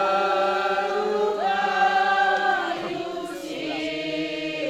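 A group of people singing a hymn together in slow, long held notes, several voices blended, changing pitch only every second or so.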